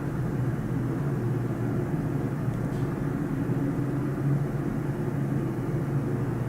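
Steady low rumble of distant engines heard from high above the city, with no clear rise or fall.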